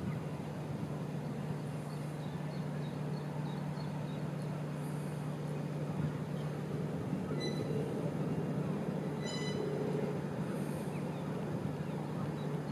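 Hitachi Azuma electric train moving slowly past, a steady low hum over an even rumble.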